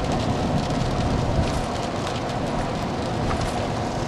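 Steady road and engine noise inside a moving car, with light rain ticking on the car in many small clicks.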